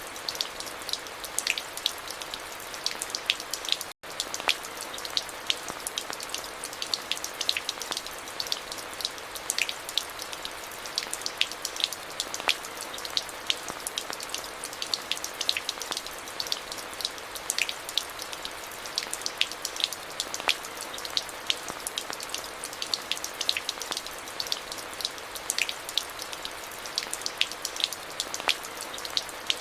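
Steady rain: a constant hiss with many separate drops striking close by. There is a split-second dropout in the sound about four seconds in.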